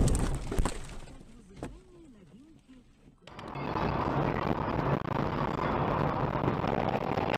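A loud impact at the start with a second knock just after, dying away into a quiet stretch. About three seconds in, the sound cuts abruptly to a steady dense noise.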